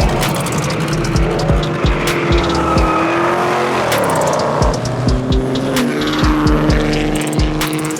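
A car doing a burnout: its engine is held at high revs, rising and falling, while the tyres squeal.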